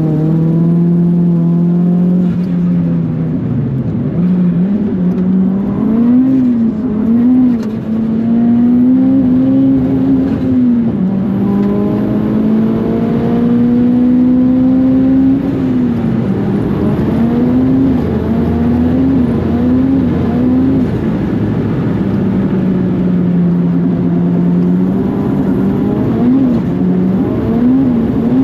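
A 404-horsepower big-turbo Mitsubishi Colt R's turbocharged four-cylinder engine under hard acceleration. Its pitch climbs through each gear, then drops back, and it wobbles quickly up and down several times as the revs rise and fall.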